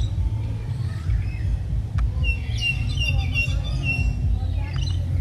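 Assorted aviary birds chirping and calling, with a quick run of repeated high chirps about halfway through. A steady low rumble runs underneath.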